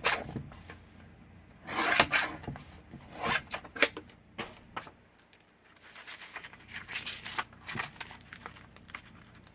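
Paper being trimmed to fit and handled: a few short, irregular cutting and rustling strokes, the loudest about two seconds in and just before four seconds.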